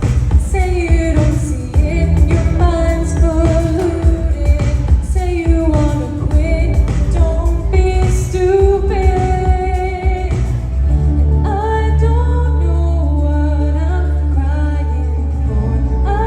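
Pop song with a sung melody over a beat. About eleven seconds in, the drums drop out and a held low bass carries on under the voice.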